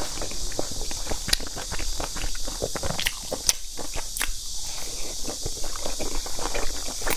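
Close-up eating sounds of a steamed dumpling: wet chewing, lip smacks and sucking, a quick run of small clicks and squelches, over a steady hiss.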